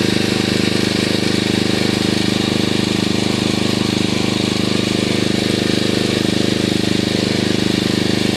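A small engine running steadily at an even speed, with a fast, regular throb.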